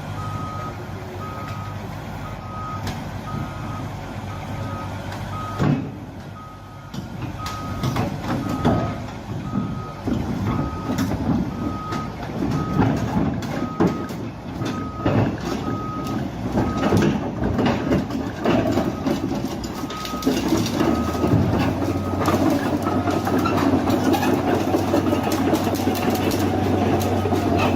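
A heavy truck's reversing alarm beeps at a steady even pace over the engine running and intermittent clatter. The beeping stops a few seconds before the end, and the engine keeps droning.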